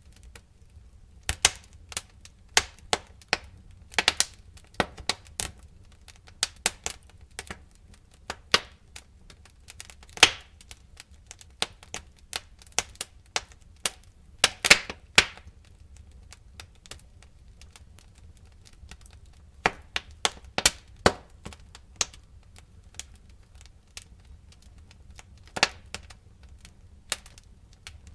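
Fire crackling: irregular sharp snaps and pops, some in quick clusters and a few much louder than the rest, over a faint low rumble.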